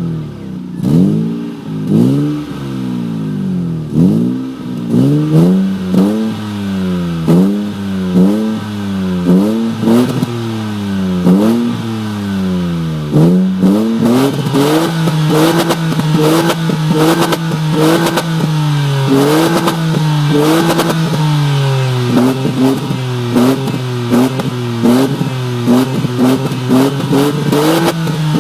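Opel Vectra B's 2.5-litre X25XE V6 exhaust as the throttle is blipped over and over, each rev rising sharply and falling back, about one a second. About halfway through the engine settles at a steady raised speed, with short, quicker blips on top.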